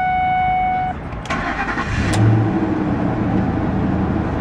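A steady warning chime tone stops about a second in. Then the 2004 Ford Expedition's 5.4-litre V8 cranks briefly, catches with a short flare and settles into a steady idle.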